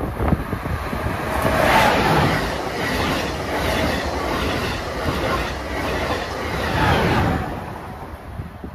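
Amtrak Acela Express trainset passing through a station at speed: a loud rush of wheel and rail noise with no horn. It swells about two seconds in and again near seven seconds, then fades as the train recedes.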